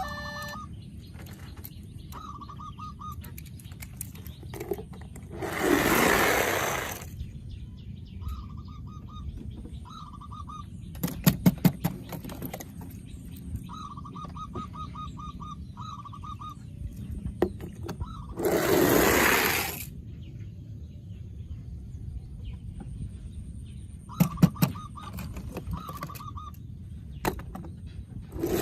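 Electronic sound effects from a battery-operated toy vehicle: groups of short chirping beeps every few seconds. Three loud hissing bursts of about a second each and two quick runs of sharp clicks break in between.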